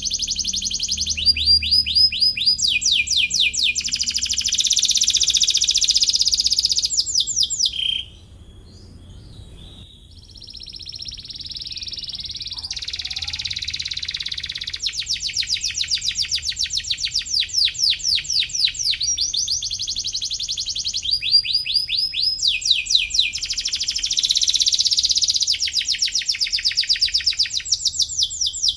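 Domestic canary singing a long song of rapid trills, each phrase a fast run of repeated high notes, switching to a new phrase every second or two. The song drops quieter about eight seconds in, then builds back to loud trilling.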